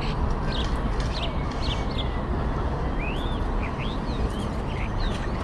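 Birds chirping and calling, short chirps and swooping calls several times a second, over a steady low rumble of background noise.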